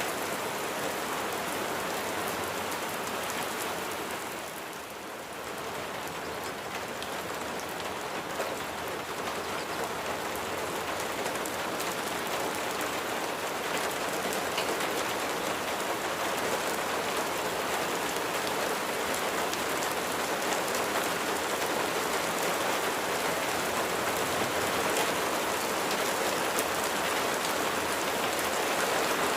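Steady rain falling, with fine ticks of single drops close by; it eases briefly about five seconds in, then carries on evenly.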